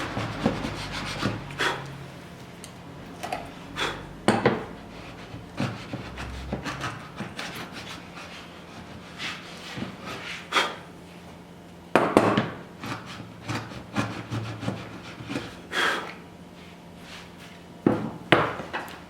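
Hand woodworking tools cutting away the waste wood of a lap joint: a series of irregular sharp knocks and short scraping cuts, some in quick pairs.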